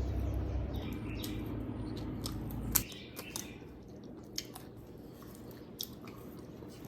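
Maryland blue crab shells being cracked and picked apart by hand: scattered small snaps and clicks of shell, over a low hum that stops about three seconds in.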